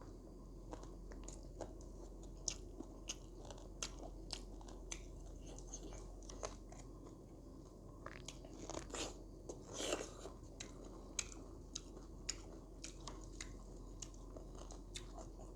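A person eating close to the microphone: chewing and crunching, with irregular sharp wet mouth clicks and a louder crunchy stretch about two-thirds of the way through.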